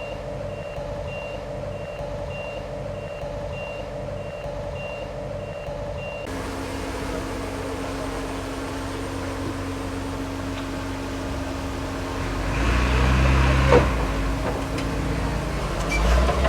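A dump truck's reversing alarm beeps a few times a second over its diesel engine. About six seconds in, the sound changes abruptly to a heavy diesel engine running steadily. It grows louder about twelve seconds in, with a sharp clank a little over a second later.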